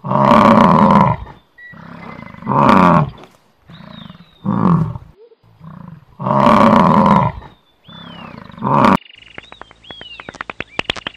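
Water buffalo bellowing: five deep calls, two of them long, over the first nine seconds. Near the end, bats squeak and click rapidly.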